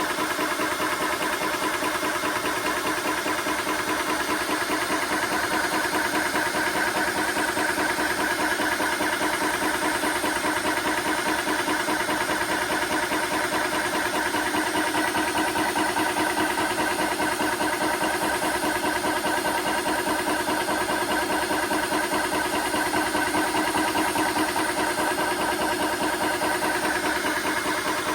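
TOAUTO A1X high-pressure PCP air compressor running steadily with a fast, even pulsing, pumping up to around 4,000 PSI.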